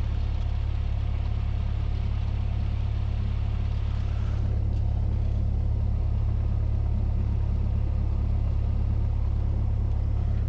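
Cessna 172S's four-cylinder Lycoming engine and propeller droning steadily in flight, heard from inside the cockpit as a deep, even hum.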